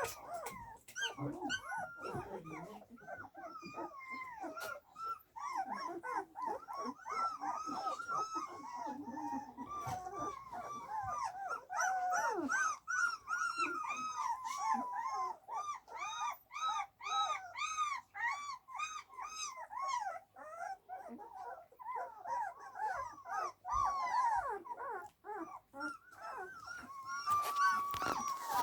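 A litter of young puppies whimpering and squeaking: many short, high, rising-and-falling calls overlapping almost without pause.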